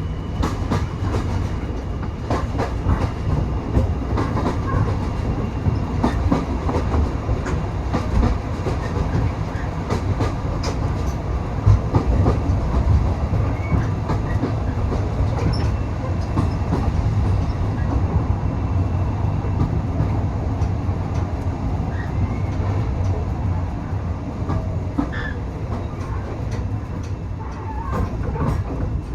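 Railway passenger coach running along the track: a steady low rumble with the wheels clicking over the rail joints.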